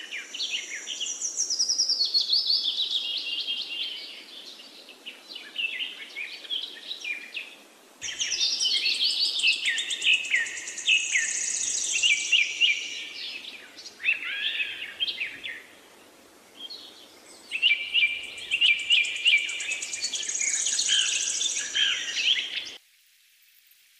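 Birdsong: several small birds chirping and twittering in quick, high trills, in stretches that fade and start up again, stopping suddenly shortly before the end.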